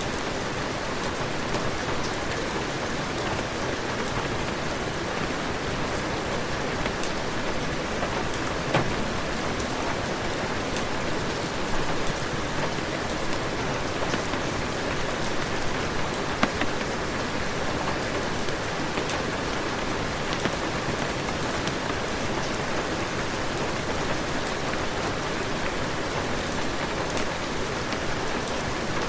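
Heavy rain falling steadily, with scattered sharp clicks of single drops or crackles standing out here and there.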